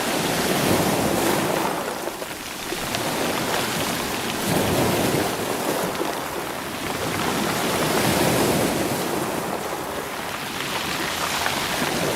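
Sea waves surging in and washing back over rocks and rolling stones, swelling about every three to four seconds, with faint clicks of stones.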